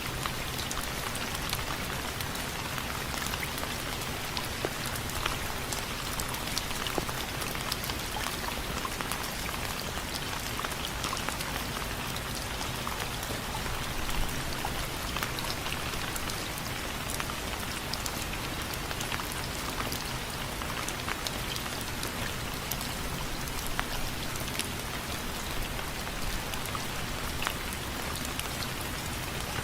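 Steady rain with individual drops ticking sharply against window frames.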